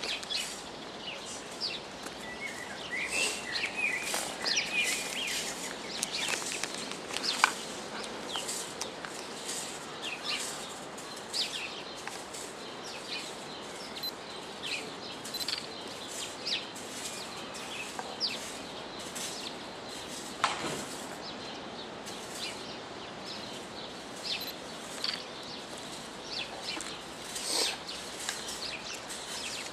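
Birds chirping: many short, high calls scattered over a steady outdoor background hiss, with one louder falling note about twenty seconds in.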